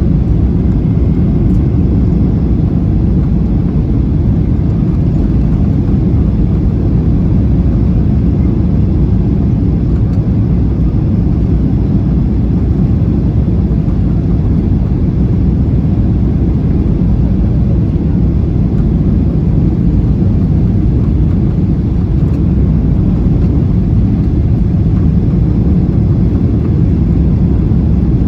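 Steady, loud cabin noise inside a Boeing 737-800 airliner on final approach, the engines and airflow making an even low rumble.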